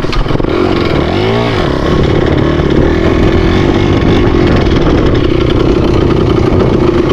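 Dirt bike engine revving up and back down once about a second in, then running steadily at a held throttle.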